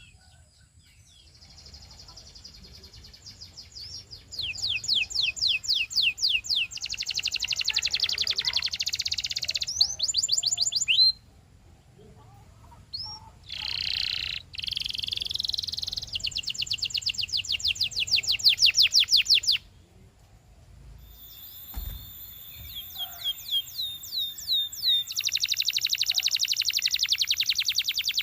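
Canary singing: long phrases of rapid repeated notes, fast trills that stop and restart after short pauses.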